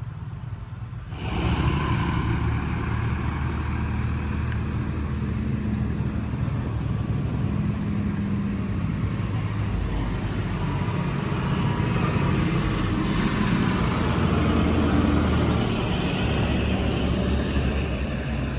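A motor vehicle's engine running steadily, loud and rumbling, cutting in abruptly about a second in.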